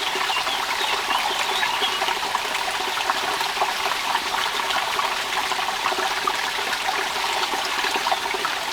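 Steady rain with dripping and trickling water: an even wash of noise dotted with many small drop ticks.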